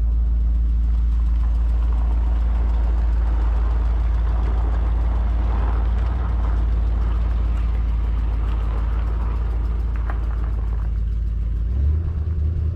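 A V8 truck engine idling steadily. Near the end a deeper, louder engine note joins in for about two seconds.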